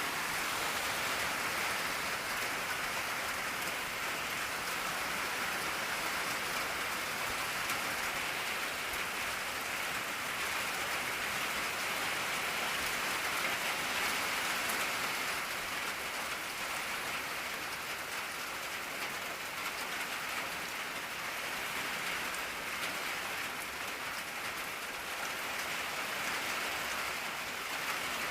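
Steady rain drumming on an old tin roof, a dense even patter of drops on the sheet metal.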